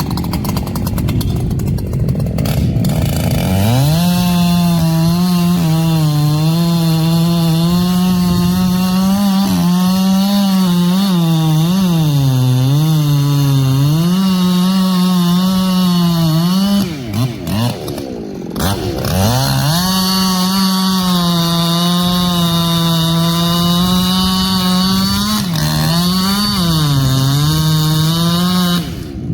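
Echo CS-7310 two-stroke chainsaw running at full throttle through a cut, its pitch sagging and recovering under load. It revs up about three seconds in, drops off briefly a little past halfway, then picks back up.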